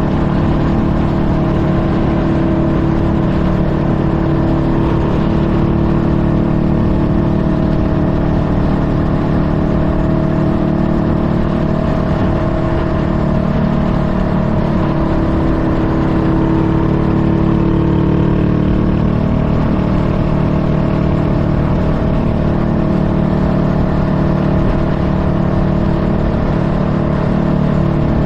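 Honda Rebel 500's parallel-twin engine running steadily, its pitch dipping and rising slightly a few times through the middle.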